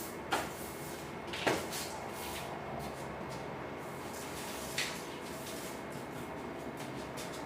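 Three short knocks of parts being handled during a stove repair, over a steady background noise.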